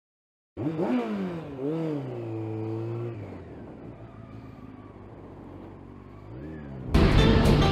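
A brief silence, then a motorcycle engine accelerating: its pitch climbs and drops twice as it shifts up, holds steady at cruise, and climbs briefly once more. Music comes in near the end.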